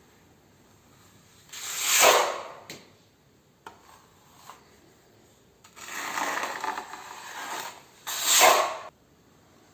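Scraping strokes across a hard surface: two loud swelling scrapes, one about two seconds in and one near the end, with a rougher stretch of scraping between them and a few small clicks.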